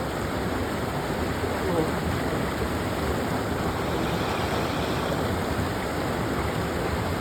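Waterfall water rushing in a steady, even roar of white noise.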